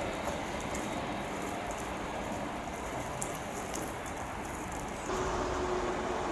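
A works freight train of flat wagons and ballast hoppers running away into the distance: a steady rumble of wheels on rail with scattered light clicks. About five seconds in, this gives way to a louder RER electric multiple unit (Z 20500 coupled with a Z 5600) approaching, with a steady humming tone.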